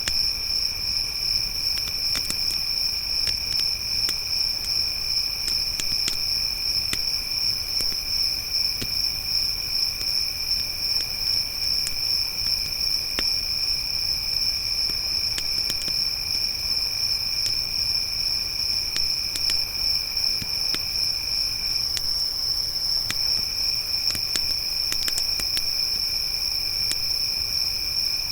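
Crickets trilling in a steady high-pitched chorus, with a second, lower insect trill that breaks off for about a second three-quarters of the way through. A campfire crackles underneath with scattered small pops.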